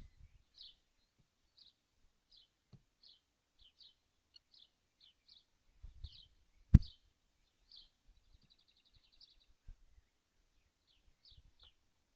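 A bird chirping in a steady series of short, high notes, with a rapid trill a little past the middle. One sharp knock just before the middle is the loudest sound.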